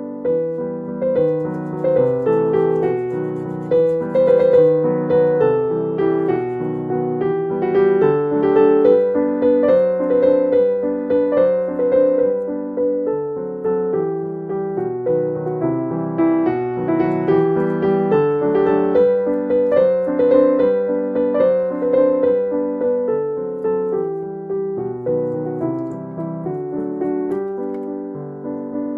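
Background music: solo piano playing a continuous melody over chords.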